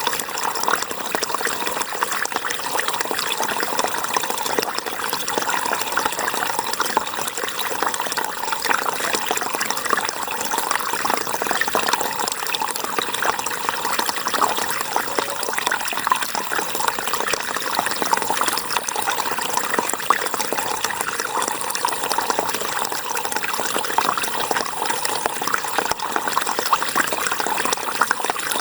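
River water flowing and splashing steadily, an even rushing sound with fine crackling detail.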